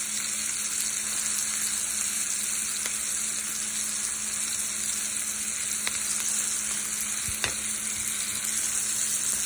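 Diced onion, ginger and garlic sizzling in hot oil in a pan: a steady high frying hiss, with a few faint clicks.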